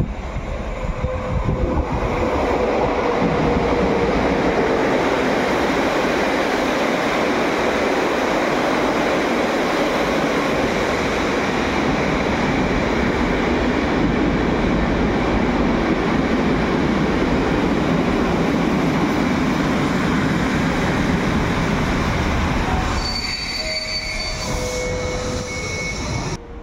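PKP Intercity passenger train hauled by an EU160 Newag Griffin electric locomotive running in along the platform. Its wheels and carriages make a loud, steady rolling rumble for about twenty seconds, then it goes quieter near the end, with thin high squeals as the train slows.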